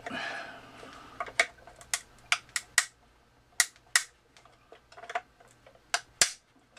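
Sharp, irregular cracks and clicks of heat-softened resin glue breaking free from the plastic as the top of a Lemax Eerie Go Round is twisted loose. Right afterwards it is called pretty horrible.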